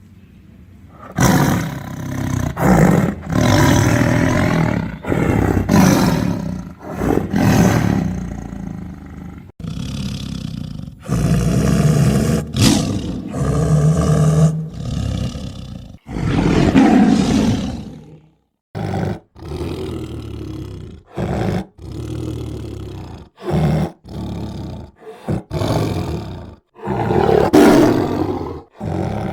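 Tiger roaring and growling again and again: long, rough roars of one to three seconds each, then from about halfway shorter, choppier roars and snarls broken by brief silences.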